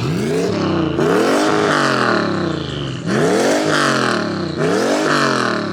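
Turbocharged 6.4-litre (392) HEMI V8 with a T67 turbo free-revved in the stall, four rev-ups each rising and falling back. These are plain revs, not a two-step launch-control limiter.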